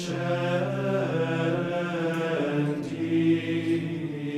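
Liturgical plainchant sung by men's voices in unison: the antiphon recalling Aaron, sung for the anointing of the new bishops' hands. Long held notes that step slowly from one pitch to the next.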